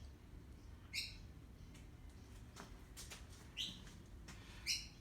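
A bird chirping: three short chirps, one about a second in and two near the end, over a faint low background rumble.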